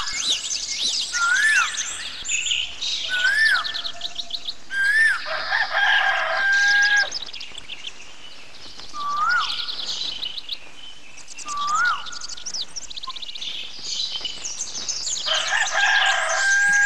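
Birds chirping and calling. A clear whistled note that rises and falls repeats every second or two over a busy twitter of quicker chirps.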